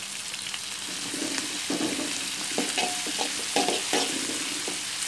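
Onion, ginger and whole spices sizzling in hot oil in a stainless steel wok. From about a second in, a spatula scrapes and stirs against the pan in repeated short strokes.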